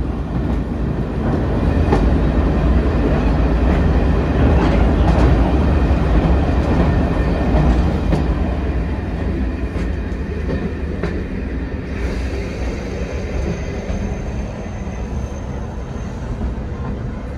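Train hauled by a class 08 diesel shunter running along the line, heard on board: a steady rumble with irregular clicks of the wheels over rail joints. It grows louder about two seconds in and eases off after about eight seconds.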